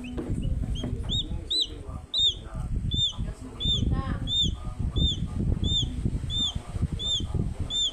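A bird peeping over and over, short rise-and-fall chirps about two a second, over a loud uneven low rumble.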